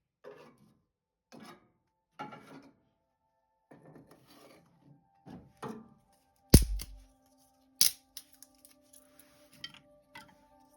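Objects being handled: short scrapes and rustles, then a heavy thump about six and a half seconds in and a sharp knock a second later, followed by a few light clicks.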